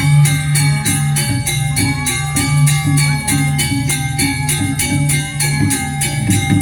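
Balinese gamelan music playing: held metallic tones over a pulsing low tone, with a fast, even beat of crisp metallic strokes about four or five times a second.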